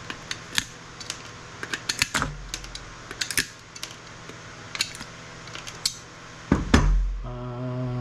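Hand tools working on circuit boards: a scatter of small sharp metallic clicks and clinks as parts are pried and snipped off, with a heavier clunk near the end.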